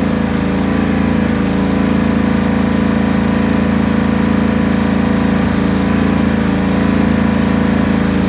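Riding lawn tractor's engine running steadily after a warm start.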